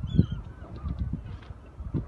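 Birds giving repeated short honking calls, over a low, uneven buffeting rumble on the microphone.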